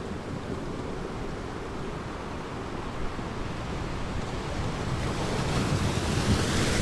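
Ocean waves washing onto a beach, a steady surf rumble with a wave building and breaking near the end, with wind noise on the microphone.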